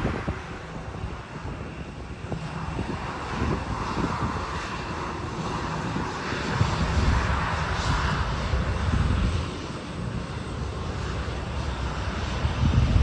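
Jet airliner engine noise, a steady rumble and hiss that grows louder for a few seconds in the middle, with wind buffeting the microphone.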